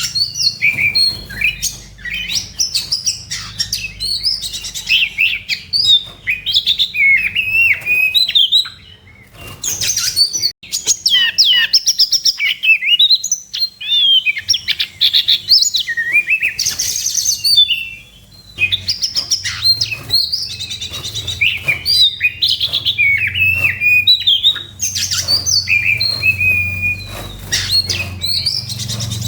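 Oriental magpie-robin singing an aggressive 'fighting' song: a fast, varied run of whistles, slurred notes and chatter, with brief pauses about nine and eighteen seconds in. This is the kind of song that keepers play to provoke another magpie-robin into singing.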